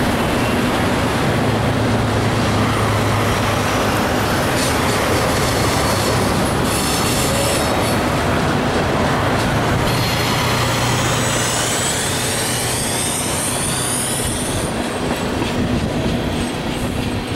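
Freight cars, tank cars and covered hoppers, rolling past with a steady rumble of steel wheels on rail and some clacking. From about two-thirds of the way through, high-pitched wheel squeal comes in, several thin tones gliding upward for a few seconds.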